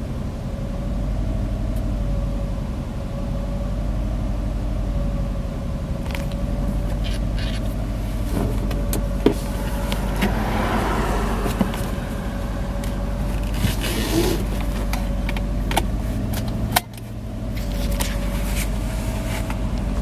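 1994 Subaru Legacy's flat-four boxer engine idling after a cold start, with a steady whine over the idle that wavers slightly in pitch. A few short clicks and knocks sound over it, the loudest about 17 seconds in.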